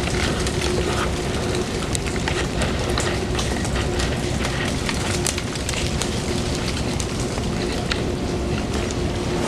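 Ice crystals and drips falling from the trees, pattering onto water and icy ground like light rain, with many small ticks throughout.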